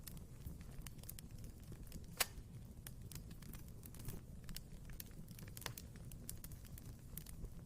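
Wood fire burning in a fireplace: a low steady rumble of flames with scattered crackles and snaps, and one loud pop a little over two seconds in.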